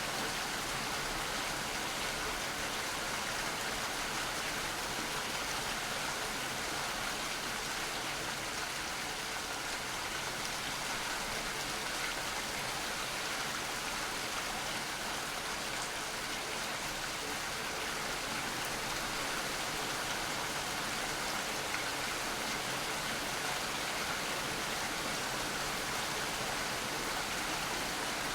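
Steady, continuous rainfall: an even hiss of rain with no single drops standing out.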